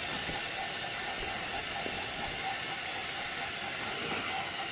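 A train engine running steadily, an even mechanical noise without breaks.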